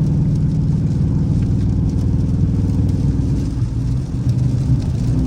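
Dodge Charger R/T's V8 engine running steadily while driving, a low hum that dips and shifts in pitch about three and a half seconds in, then picks up louder near the end.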